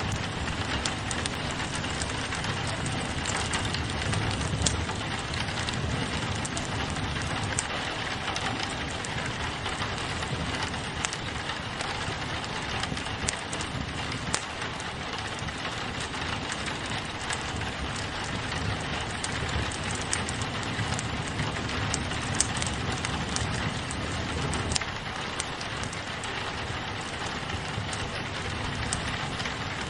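Steady rain against a window pane mixed with a crackling wood fire, with scattered sharp pops and drips over an even hiss.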